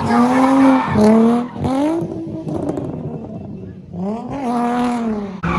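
Car engine revving hard and held at high rpm with tires squealing. The engine falls away about two seconds in, stays lower for a couple of seconds, then climbs again about four seconds in.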